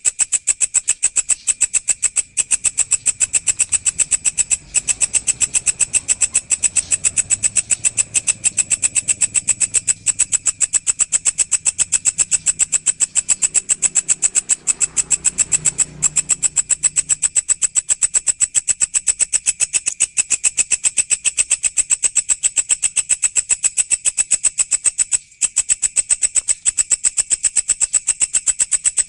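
A walang (grasshopper) stridulating: a continuous, high-pitched buzzy pulse train, several even pulses a second, with a few brief breaks.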